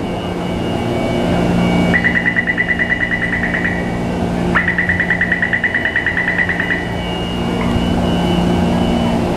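A rapid electric warning buzzer sounds twice, each time for about two seconds at roughly ten pulses a second, over a steady low hum.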